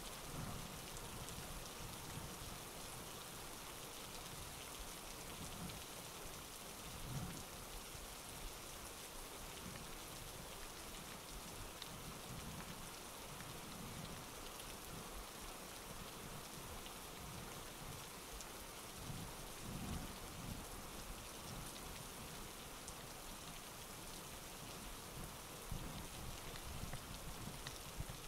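Faint steady rain falling, a fine scatter of drop ticks, with a few soft low thumps now and then.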